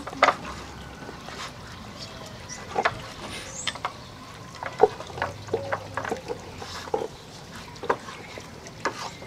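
Plastic Dog Tornado food puzzle clicking and knocking as a dog nudges and spins its rotating layers, in irregular sharp knocks, the loudest about halfway through.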